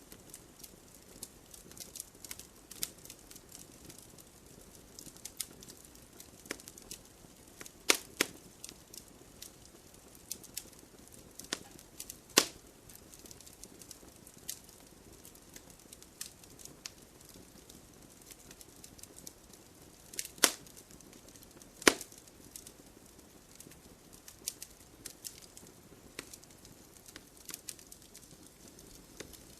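Wood campfire burning, crackling steadily, with a few loud sharp pops scattered through it.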